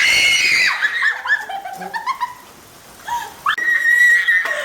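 Girls shrieking and squealing: a long high-pitched scream at the start, short squeals and laughter in the middle, and another long shriek near the end, reacting to having messy food poured over one of them.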